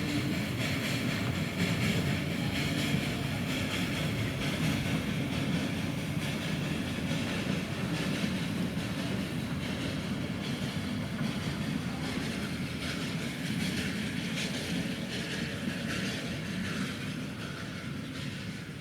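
A Mariazellerbahn narrow-gauge 'Himmelstreppe' electric train running on the track, a steady rumble of wheels and running gear that gradually gets a little quieter near the end.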